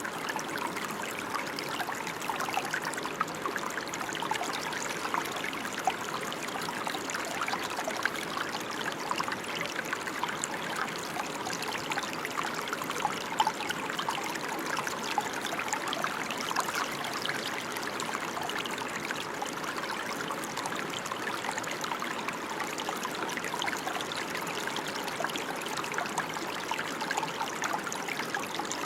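Steady rain falling, a continuous patter of many small drops with fine crackling, even in level throughout.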